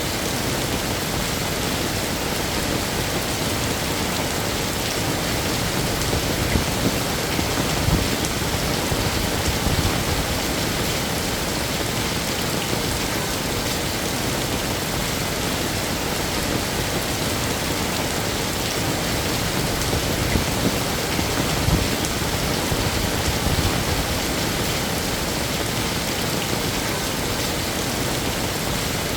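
Heavy rain falling steadily, a dense even hiss of rain on hard surfaces, with a few brief low thuds from heavier drops or gusts about a third of the way in and again near two-thirds.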